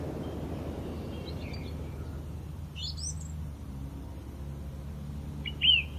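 Small birds chirping in short calls. A few chirps come about a second and a half in, a quick rising run of chirps about three seconds in, and arched chirps near the end. Under them runs a steady low outdoor rumble.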